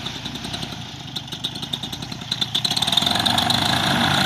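A small engine running, getting louder about three seconds in.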